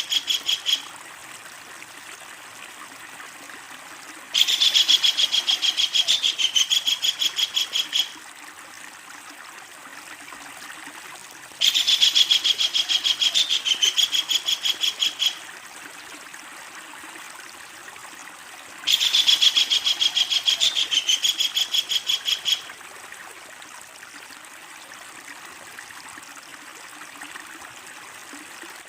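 Kingfisher giving its long chattering call: a loud, rapid run of high notes lasting about four seconds, repeated three times about seven seconds apart, with a faint steady hiss between the calls.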